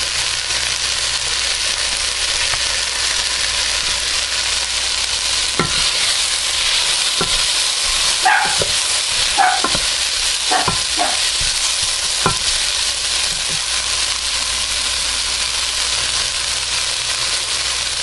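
Diced onions and celery sizzling steadily in oil in a metal stock pot as they sauté toward caramelization, stirred with a wooden spoon. A handful of short knocks come from the spoon against the pot in the middle.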